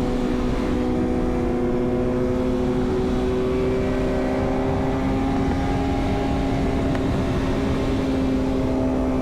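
Motorcycle engine running steadily at highway cruising speed, one even note with overtones, under a constant rumble of wind noise.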